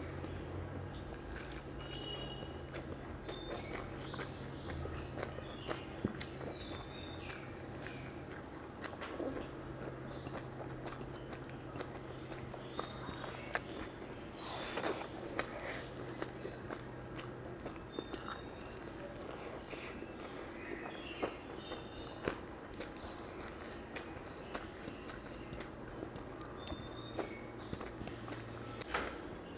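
Close-up mouth sounds of a person chewing mouthfuls of rice and curry eaten by hand, with many small wet clicks throughout. Short high chirps recur in the background over a low steady hum that stops near the end.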